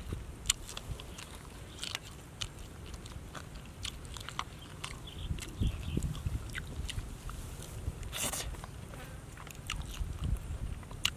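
A person eating grilled catfish close to the microphone: chewing and lip-smacking in scattered short wet clicks, with a longer, louder mouth noise about eight seconds in.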